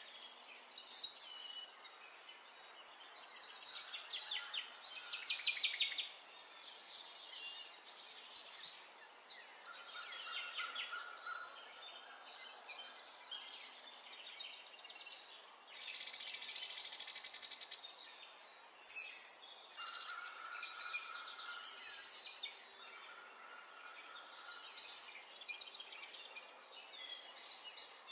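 Birds chirping and trilling almost without pause, with many quick high calls overlapping, a longer buzzing trill midway, and a few steady whistled notes.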